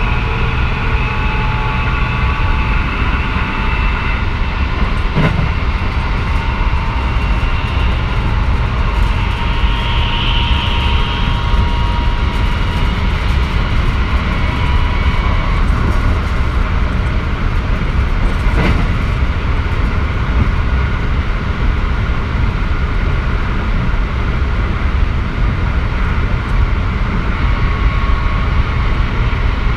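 Onboard running sound of a 1000-series electric train at speed: a steady rumble of wheels on rail with faint motor tones above it, and a couple of brief clicks.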